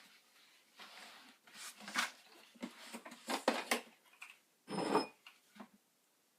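Irregular clinks, knocks and rustles of hard objects being handled, with a louder rustling burst near the end.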